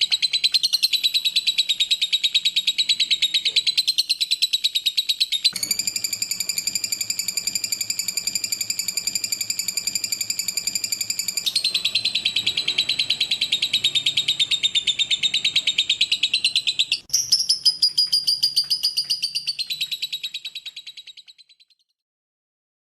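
Lovebird in a long, rapid, high-pitched chattering trill, many notes a second without a break. The trill changes sharply a few times and fades out near the end.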